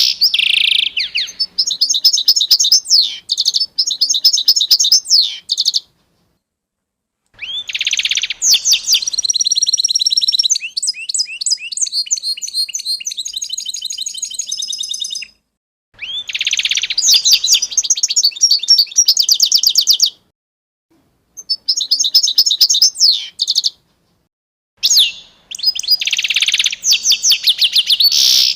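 A songbird singing long phrases of fast, high trills and chirps, broken by a few brief dead silences between phrases.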